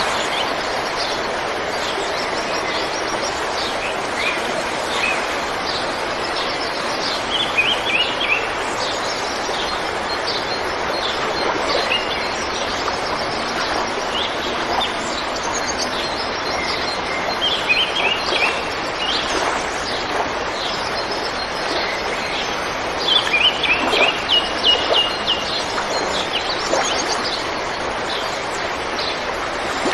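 Steady rushing of river water flowing over rocks. Small birds chirp and call over it throughout, with several quick runs of repeated notes; the loudest come about three-quarters of the way through.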